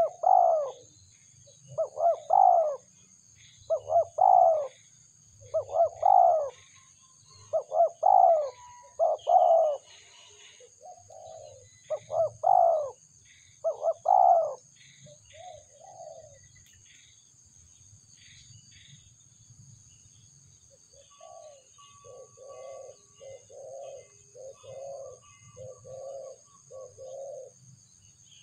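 Spotted doves cooing: one bird repeats a loud, rolling coo about every two seconds for the first half. After a pause, a fainter, quicker series of shorter coos follows.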